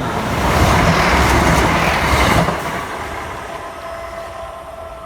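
Class 165 Turbo diesel multiple unit passing close by at speed, its wheels on the rails making a loud rush. The rush drops sharply about two and a half seconds in, then fades as the train moves away.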